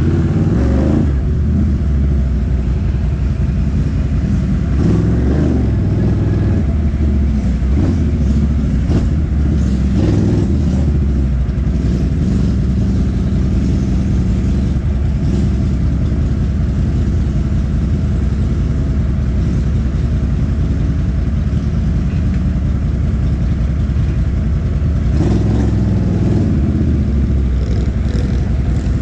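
ATV engine running steadily while riding, with scattered knocks from the machine over rough ground.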